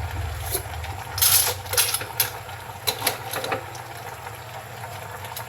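A quick run of sharp clinks and knocks of hard objects, about seven in three and a half seconds, the loudest about a second in. A low engine hum dies away at the very start.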